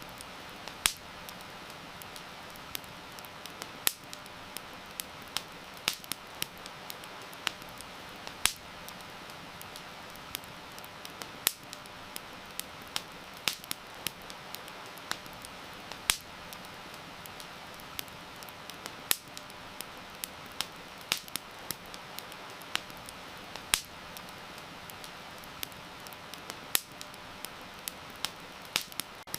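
Wood campfire crackling, with sharp irregular pops and snaps, over a steady hiss of heavy rain.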